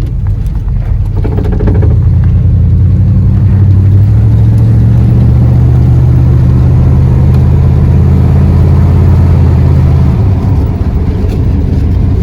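1988 Chevrolet K3500's 454 big-block V8 pulling the truck along the road with a steady low drone. The engine note builds about two seconds in, gets louder again around four seconds, and eases off about ten seconds in.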